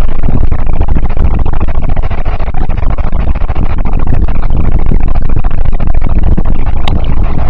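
Moving train running at speed, a loud steady rumble and rush of noise, with a short click about seven seconds in.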